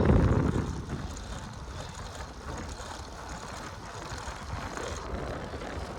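Wind buffeting the microphone while on the move: a strong low gust right at the start, then a steady rumbling noise.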